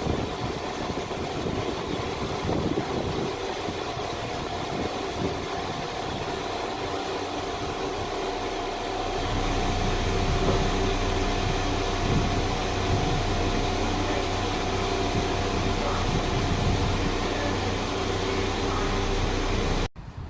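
A train's engine running steadily with a held mechanical tone; a deeper low hum comes in about halfway through. The sound cuts off abruptly just before the end.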